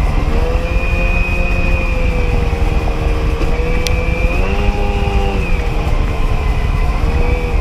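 Two-stroke engine of a 1994 80 hp Sea-Doo XP personal watercraft running under way, over a heavy rumble of wind and water. The engine pitch holds steady, rises about four and a half seconds in, and settles back a second later.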